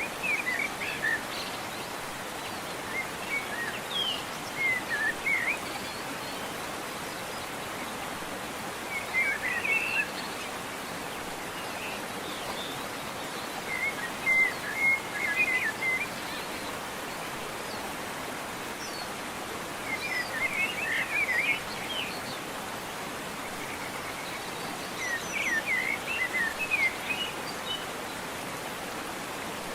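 Steady rush of a waterfall, with short phrases of songbird chirping cutting through it about every five seconds.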